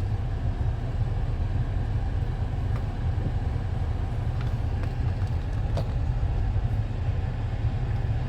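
Steady low road and engine rumble inside a moving car's cabin, with one faint click about six seconds in.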